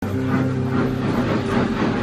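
A train running on the rails, with a steady low hum and a repeating rolling sound.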